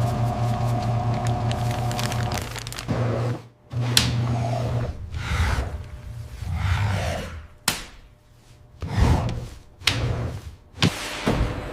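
Factory machinery: a steady mechanical hum for about the first three seconds, then a broken run of whooshes and sharp clunks.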